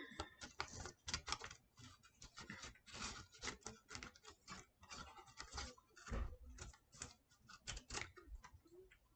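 Faint, irregular crinkling and crackling of craft material being crumpled and shaped by hand.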